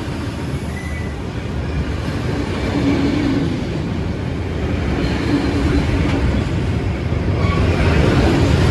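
Train running on the rails: a steady rumble that grows louder near the end.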